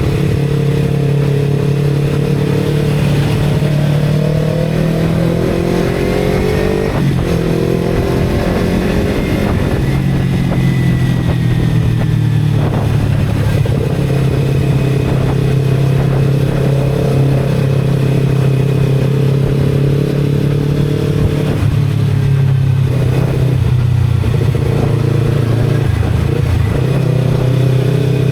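Motorcycle engine running under way. Its pitch rises and falls for several seconds as the throttle changes, then holds steady.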